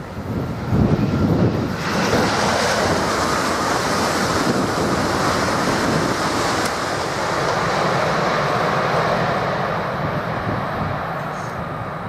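Southeastern Class 395 Javelin high-speed electric train passing close at speed. A loud rushing noise builds about two seconds in and slowly fades over the last few seconds as the train goes by.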